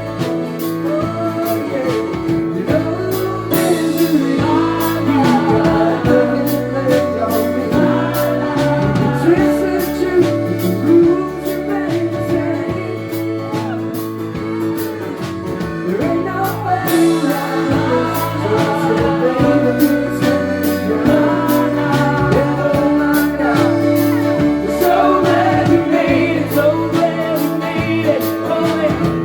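A band playing a song live, with several voices singing together over the instruments and a bass line stepping from note to note.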